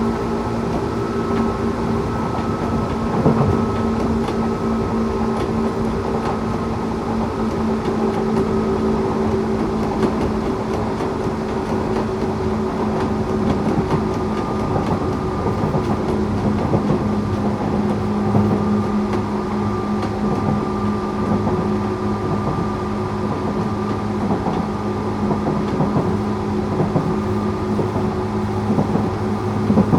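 Interior sound of a Tokyu 8500 series electric train car: a steady hum of several constant tones over a running rumble, with a few light clicks.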